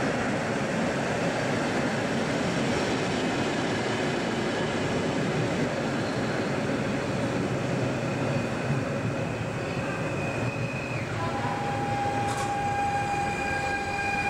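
A train running on the station tracks: steady rolling rumble, with a steady high whine setting in about eleven seconds in.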